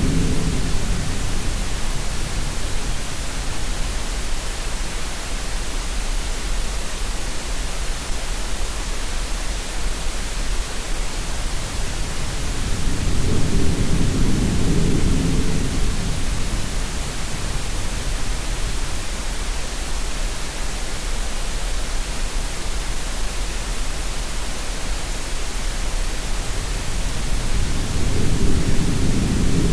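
Steady green noise hiss mixed with sea sounds: a low surging swell of waves rises and falls near the start, again around the middle, and again near the end.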